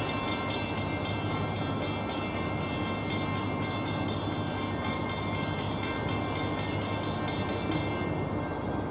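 Train at the station: a steady low hum with a fast, even clicking or ringing over it that stops near the end.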